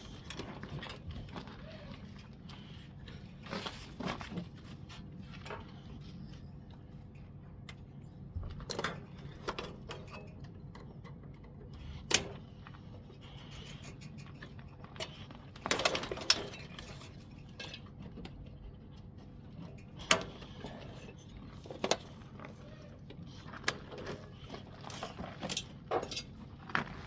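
Metal parts and hand tools clinking and knocking at irregular intervals over a steady low hum, as an air conditioner is taken apart for scrap.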